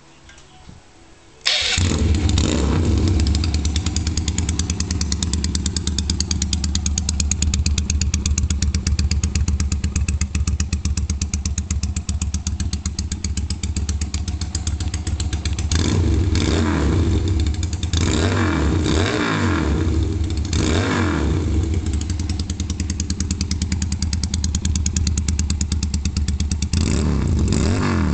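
Motorcycle engine breathing through an Akrapovic slip-on megaphone exhaust: it starts abruptly about a second and a half in and settles into a steady idle. About halfway through it is blipped several times, rising and falling, then idles again, with more blips near the end.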